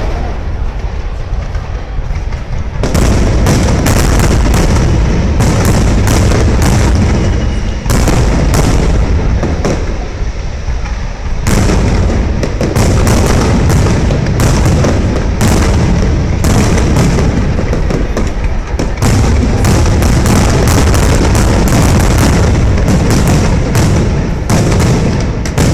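Fireworks display: aerial shells bursting in rapid, overlapping bangs with deep booms, nearly continuous from about three seconds in, with a short lull about ten seconds in.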